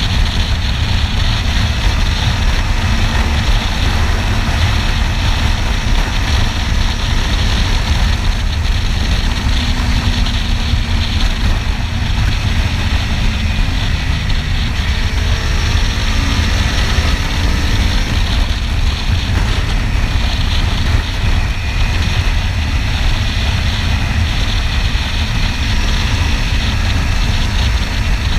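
Kawasaki Ninja 300 parallel-twin running under way, with heavy wind rumble on the helmet-camera microphone. The engine's pitch shifts faintly about halfway through.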